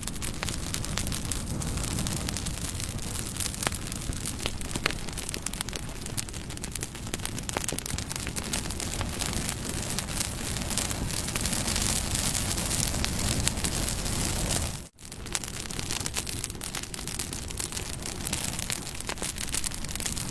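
Campfire burning: wood crackling and popping over a steady hiss. The sound drops out for a moment about fifteen seconds in.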